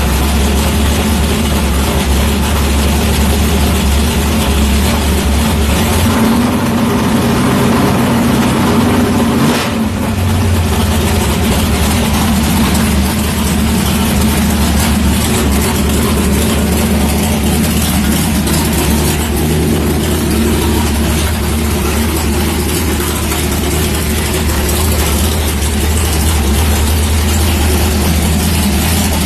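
Big-block Ford V8 idling steadily, warming its freshly changed oil. The note shifts briefly between about six and ten seconds in.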